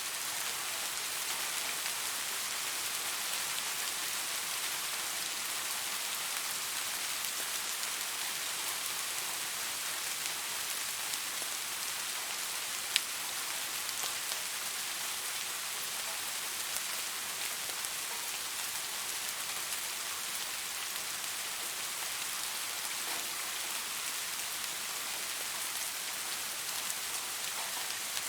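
Steady rain falling on leaves: an even hiss of dense, fine drop patter. One sharper tick stands out about halfway through.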